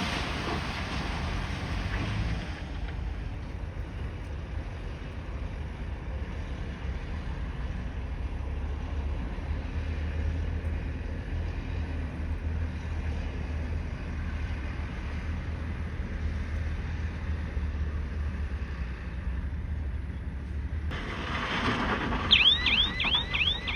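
Bulldozer's diesel engine running with a steady low rumble. Near the end the sound grows louder and a quick run of high squeaks falls in pitch, as from the crawler tracks moving.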